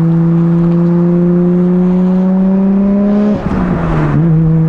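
Nissan Skyline R32 GT-R's twin-turbo inline-six under way: the engine and exhaust note climbs slowly in pitch as the car accelerates, breaks up with a rush of noise a little over three seconds in, then settles to a steady lower note.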